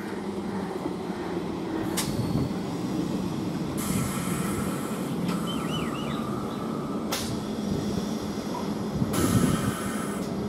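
Electric multiple unit local train rolling slowly past as it pulls into the station: a steady low rumble and hum of wheels and running gear, with short bursts of hiss every few seconds.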